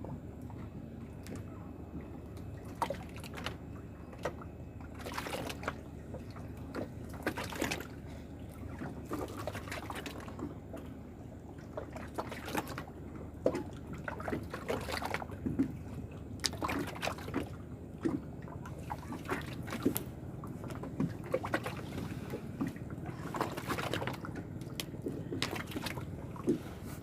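Water splashing and sloshing in small irregular bursts, a few each second, over a low steady background noise.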